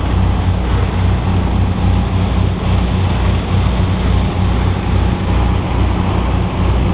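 Motorboat engine running steadily with a low drone, under a constant rushing noise.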